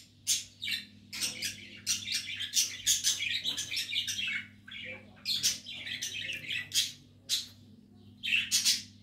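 A bird chirping and chattering in quick, irregular bursts, with a run of nearly continuous chatter from about one to four seconds in.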